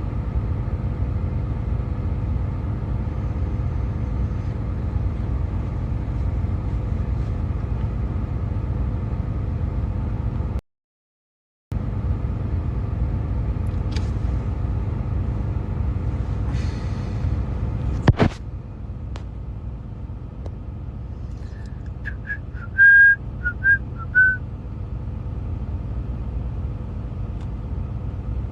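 Steady low rumble of an idling truck heard from inside the cab. The sound cuts out completely for about a second near the middle; later a sharp click is followed by a quieter rumble, and a few short high beeps sound near the end.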